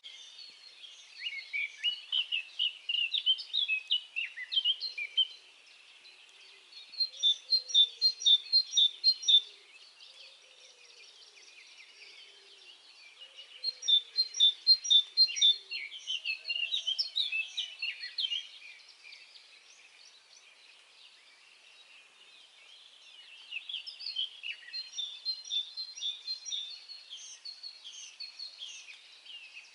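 Songbirds singing at dawn: quick chirping and trilling phrases in several spells a few seconds long, with quieter gaps between them.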